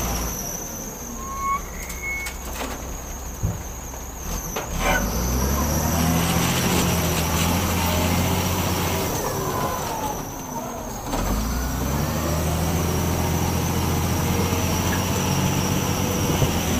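Heavy diesel engine of a dump truck or wheel loader running under load. It eases off twice and comes back up to full revs. Brief squeals are heard about a second in.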